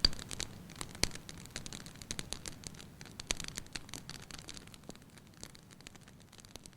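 Wood fire crackling with irregular pops and snaps, fading out gradually toward the end.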